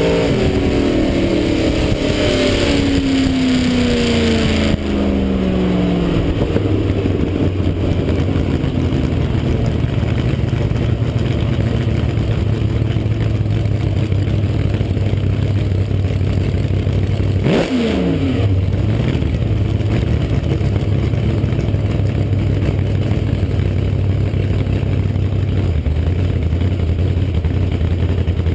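Blown, alcohol-injected 383 small-block V8 (8-71 supercharger) in a 1966 Chevrolet pickup, dropping from a rev to a steady idle. About two-thirds of the way through, one quick throttle blip rises and falls straight back to idle.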